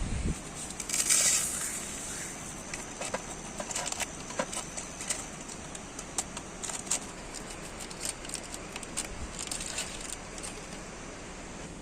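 Steady rain hiss with scattered drops ticking and tapping irregularly, and a short rustle about a second in.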